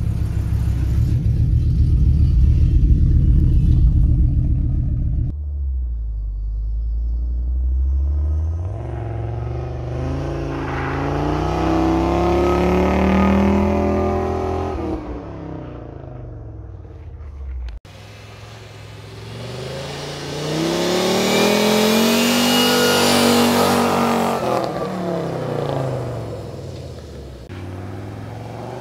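Audi Coupé quattro's 136 PS five-cylinder engine: a deep low rumble close up for the first few seconds. Then the car accelerates twice, each time revving up and falling back as it drives on snow.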